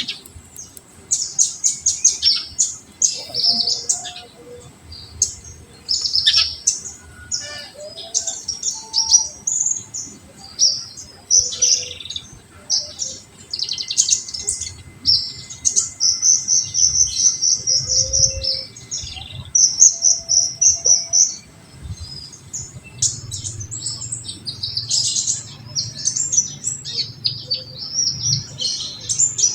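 Kolibri ninja, a sunbird, singing a full 'tembakan' song: dense high-pitched chirps broken by rapid trills, nearly continuous.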